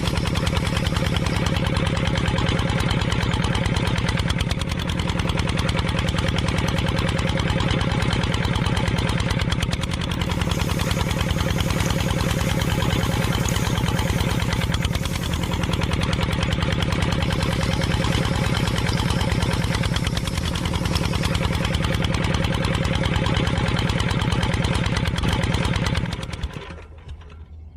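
A small engine running steadily with a fast, even pulse, cutting off near the end.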